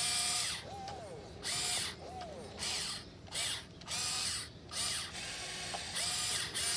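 Small electric gear motors of an RC excavator whining in about eight short start-stop bursts as the arm, bucket and swing are worked, the pitch rising and falling within several bursts, with a gritty gear rattle.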